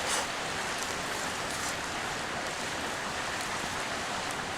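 A river flowing close by, a steady rushing of water, with a few faint ticks over it.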